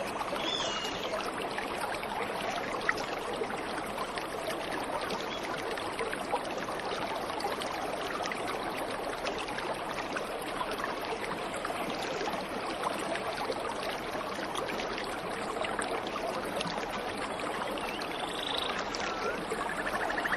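Waterfall rushing steadily, an even roar of falling water, with a few faint bird chirps near the start and near the end.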